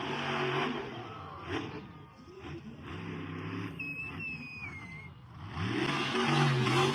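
Monster truck engine running and revving, climbing in pitch about five and a half seconds in. A short falling whistle is heard about four seconds in.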